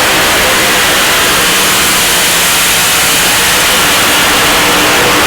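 Pulling truck's engine running flat out under load, loud and steady, heard as a constant rush of noise that swamps the microphone, with faint engine tones beneath.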